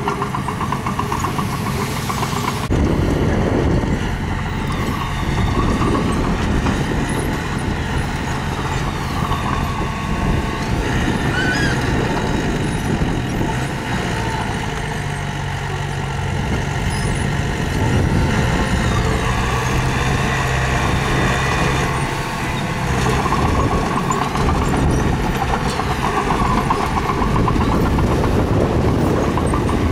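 Mini bulldozer's diesel engine running under load as it works, with a heavy rumble that grows louder about three seconds in and swells and eases as the machine works.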